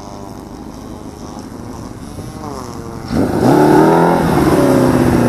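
Motorcycle engine, first heard faintly, then about three seconds in it gets much louder, revving up and settling into a steady idle.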